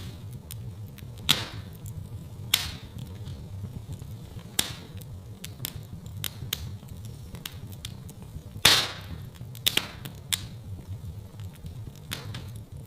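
Wood fire crackling in a fireplace: a steady low rumble of burning with sharp pops and snaps every second or two, the loudest pop about two-thirds of the way through.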